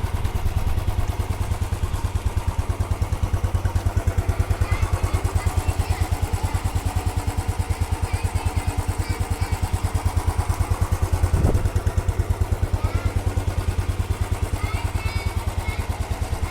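Royal Enfield Bullet Standard's single-cylinder four-stroke engine idling, with its steady, even thump. There is one brief louder blip about eleven seconds in.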